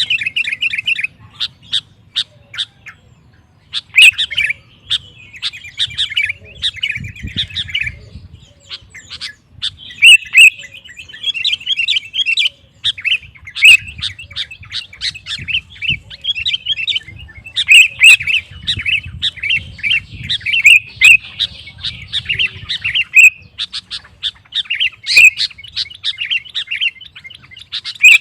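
Sooty-headed bulbul singing energetically: phrases of rapid, bubbly chattering notes broken by sharp loud calls, with short pauses between phrases.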